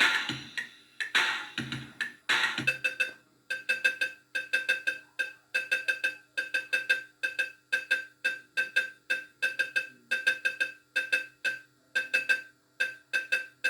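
JPM System 5 fruit machine playing its sampled sounds through a rough speaker hookup: a music jingle ends, then a fast run of short, identical electronic beeps repeats at about three to four a second.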